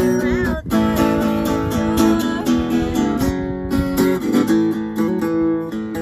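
Acoustic guitar strumming chords in a steady rhythm, an instrumental passage of an acoustic rock song.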